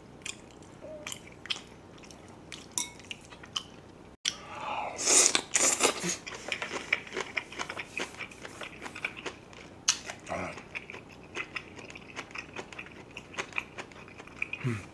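A person chewing and crunching cabbage kimchi, a run of wet crunches and clicks, loudest about five seconds in, with a brief dropout just before.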